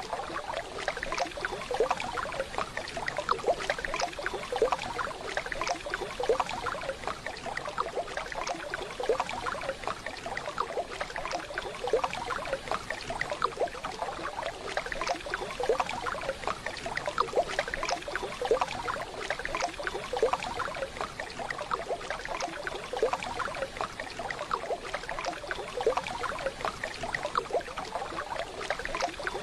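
Waterfall recording: water running and splashing in a steady, dense burble.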